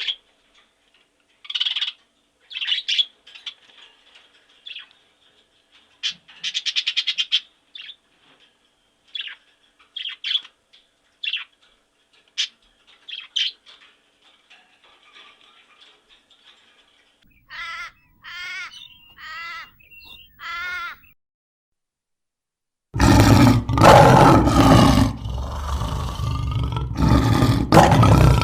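A bird calling in scattered short chirps, with a quick trill about six seconds in. Next come four short wavering calls, and after a two-second pause a loud, deep, rough animal roar begins.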